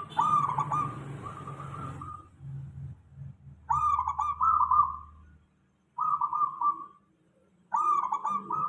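Zebra dove (perkutut) song: four phrases of quick, stuttering cooing notes, the first about two seconds long and the rest shorter, separated by short pauses, over a faint low hum.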